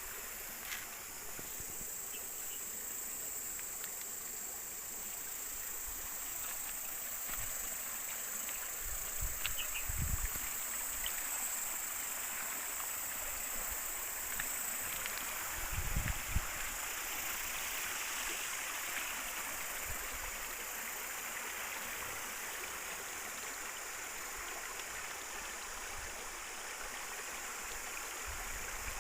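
River water flowing steadily, with insects trilling in a continuous high-pitched drone over it. Two brief low bumps come about a third and half of the way through.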